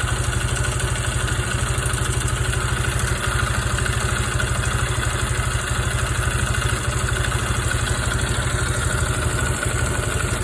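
Engine idling steadily with a rapid, even mechanical clatter, an abnormal noise that the owner asks which part needs replacing to cure.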